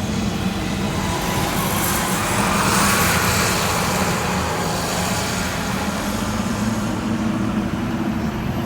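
Heavy logging equipment engine running steadily, the noise swelling for a couple of seconds around three seconds in and then settling back.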